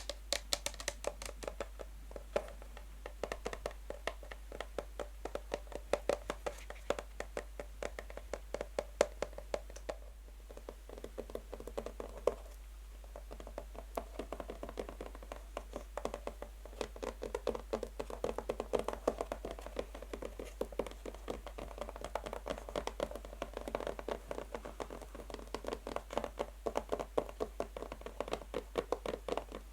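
Natural fingernails tapping fast on a box: a dense, rapid patter of light clicks with a hollow ring, easing off briefly about ten seconds in, then picking up again.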